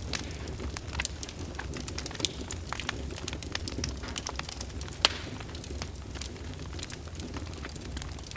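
Open fire in a fireplace crackling, with sharp irregular pops and one louder snap about five seconds in, over a low steady rumble of the flames.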